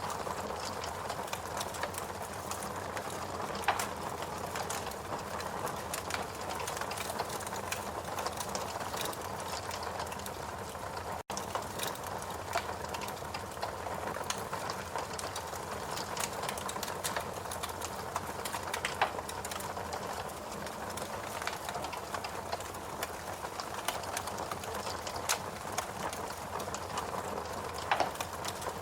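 Fireplace crackling: irregular sharp pops and snaps over a steady hiss and low rumble. The sound cuts out for an instant about eleven seconds in.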